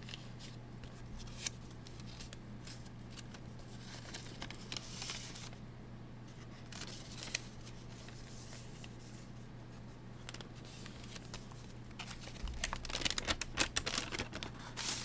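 Paper bag journal pages being handled and turned, with soft paper rustles and crinkles that grow busier near the end. A low steady hum runs underneath.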